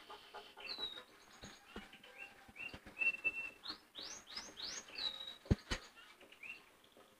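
Small birds chirping in quick, varied calls, short rising and falling whistles with one held note, under faint scratching from a cloth rubbing a painted fuel tank. Two sharper clicks come about five and a half seconds in.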